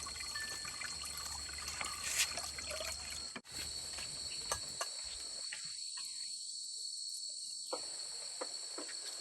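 Steady high-pitched chirring of crickets or other insects. Faint scattered light knocks sound now and then, and a low background hiss drops out abruptly about three and a half seconds in.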